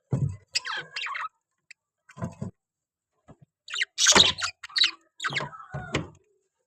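A pet parrot calling and chattering in short, irregular bursts, loudest about four seconds in.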